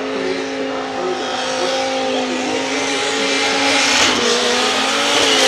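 Twin-turbocharged, nitrous-fed 8.3-litre V10 of a Dodge Viper SRT10 held at steady revs while the rear tyres spin and slide in a drift. A hissing tyre noise grows louder over the last couple of seconds.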